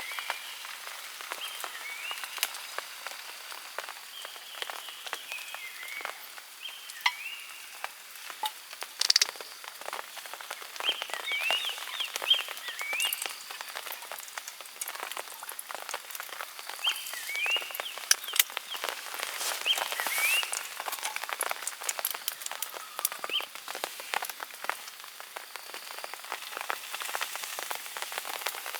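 Steady rain with many close drops ticking and tapping. Clusters of short rising chirps from a small animal come and go over it.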